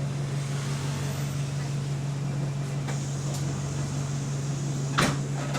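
Bus engine idling with a steady low drone, heard on board; this bus has an exhaust leak. Two short sharp sounds come about five seconds in, half a second apart.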